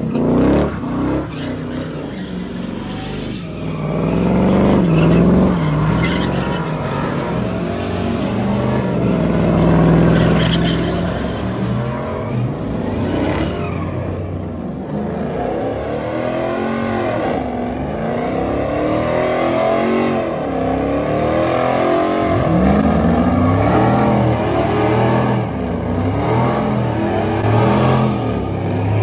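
Car engine revving hard, its pitch sweeping up and down over and over in repeated surges.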